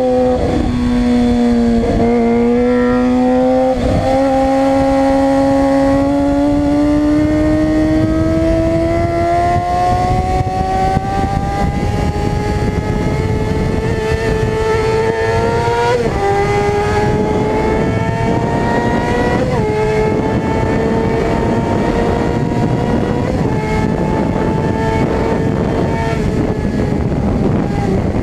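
Suzuki GSX-R600's inline-four engine at high revs, its pitch climbing steadily with brief drops at gear changes: two quick shifts in the first few seconds, a long pull in one gear, then two more shifts past the middle. A steady rush of wind noise runs underneath.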